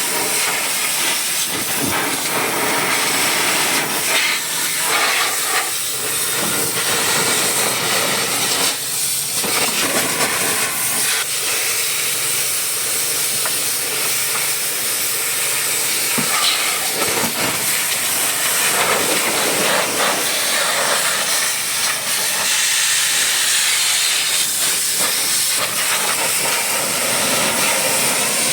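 High-pressure washer spraying water, a steady loud hiss that wavers slightly as the spray moves over the surface.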